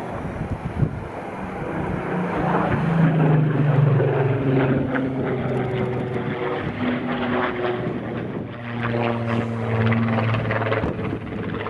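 Supermarine Spitfire's piston engine running during a low aerobatic pass. The engine note drops in pitch as the aircraft goes by and swells in loudness twice, about three seconds in and again near the end.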